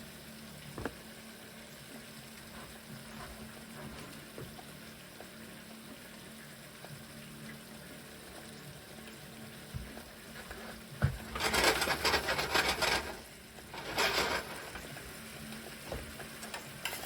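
Food frying in a hot pan over a faint steady hiss. About eleven seconds in, after a click, it flares into loud sizzling for a little over a second, then flares again more briefly about two seconds later.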